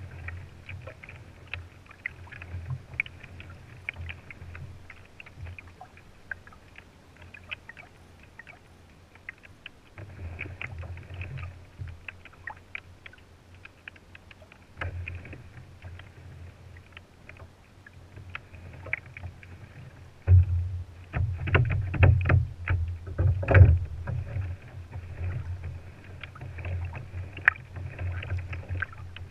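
Water lapping and splashing against a fishing kayak's hull, with scattered small knocks and ticks. About two-thirds of the way in there are a few seconds of louder knocks and splashes.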